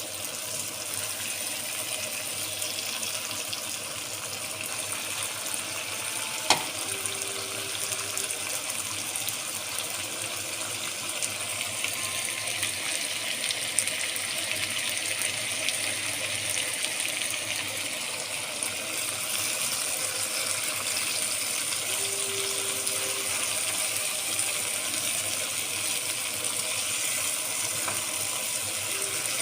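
Water running steadily from a tap, with one sharp clink about six and a half seconds in.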